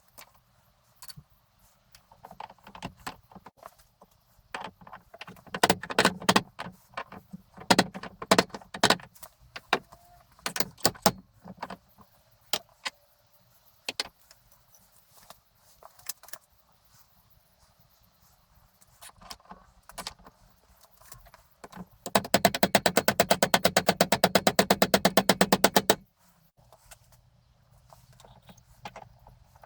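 Metal parts being handled and knocked together in a series of irregular clicks and knocks, then a fast, even run of loud clicks lasting about four seconds.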